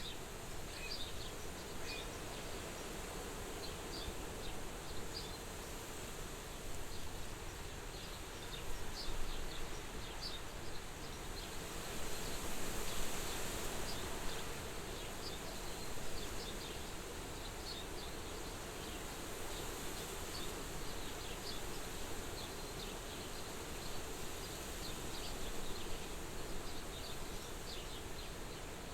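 Soft wind blowing steadily, swelling a little twice, with many short high chirps scattered through it.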